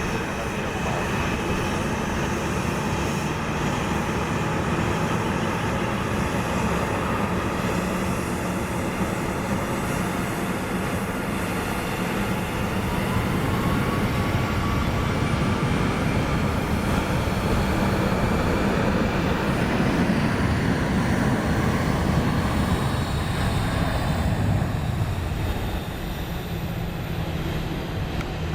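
Jet airliner engines running steadily, louder through the middle and easing a little near the end.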